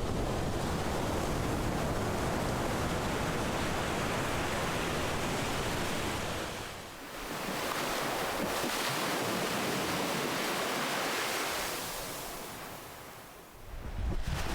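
Ocean surf: waves washing in as a continuous rush of noise that eases off about halfway through, swells again, and fades near the end before a new wave breaks.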